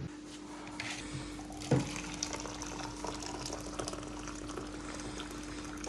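Water running in a kitchen, with small clicks and clatter as it splashes, over a steady hum. There is one knock a little under two seconds in.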